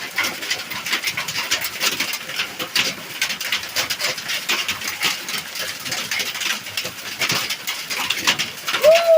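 Heavy rain mixed with hail pelting down, a dense continuous patter of sharp hailstone ticks and taps. A bird calls briefly near the end.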